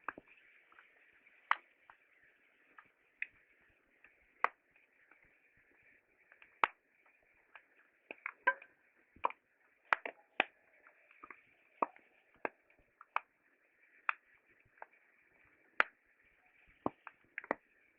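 Wood fire crackling: irregular sharp pops and snaps, one or two a second, over a faint steady hiss.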